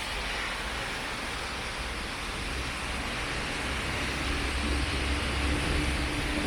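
Steady hiss of rain with a low traffic rumble; a vehicle engine grows louder toward the end.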